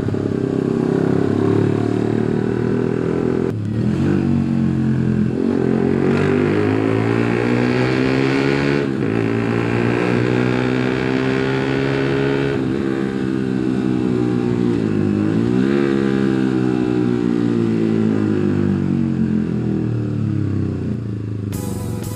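Suzuki GSX150R's single-cylinder 150 cc engine under way, heard from the rider, its revs climbing and dropping several times as it changes gear. Music comes in near the end.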